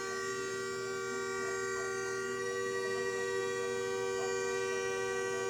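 Continuous horn-like blare on two steady, fixed pitches that neither rises nor falls nor breaks.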